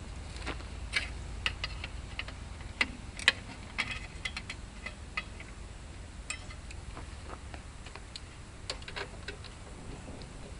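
Irregular light clicks and taps of hands and tools on metal as a replacement ignition coil is worked at its mounting on a tractor engine.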